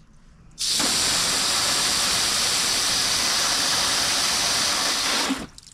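Water spraying hard from a hose nozzle in a loud, even hiss, starting suddenly about half a second in and cutting off suddenly near the end.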